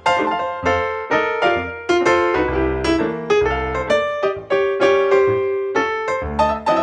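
Background piano music: a steady flow of struck notes, melody over a bass line.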